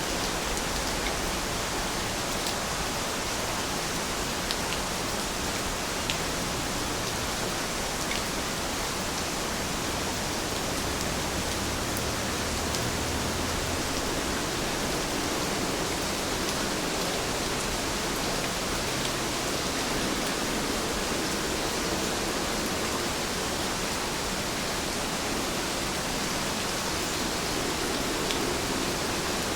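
Steady rain, an even hiss of falling water with a few faint drop ticks here and there.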